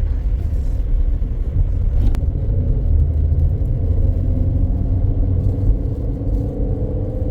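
Car driving: a steady engine and road rumble, the engine note rising a little over the last couple of seconds.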